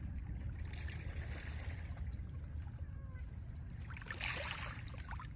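Small lake waves washing gently over a pebble shore, two washes swelling and fading, one about a second in and a stronger one about four seconds in, over a steady low rumble.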